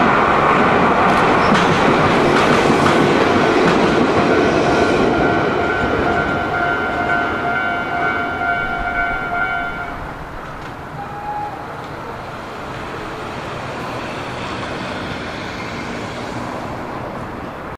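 Nankai electric commuter train running past on a steel girder bridge, its wheels rumbling over the rails, with a steady high-pitched ringing tone through the first half. The sound fades to a quieter background after about ten seconds as the train moves away.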